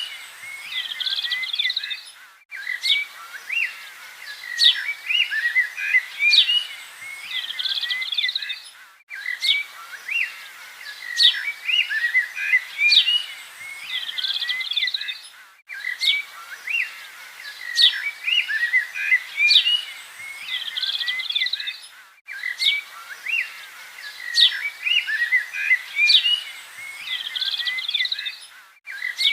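Birds chirping and calling together in a dense chorus of short, high notes. The same stretch recurs every six or seven seconds, each time after a brief gap.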